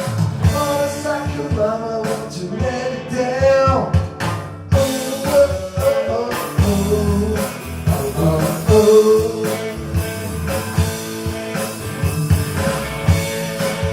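Rock band playing an instrumental break, with a drum kit keeping the beat under a sliding melodic lead line.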